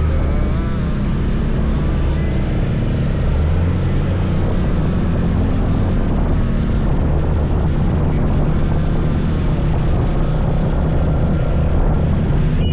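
Scooter engine running steadily under way, mixed with a dense rush of wind and road noise.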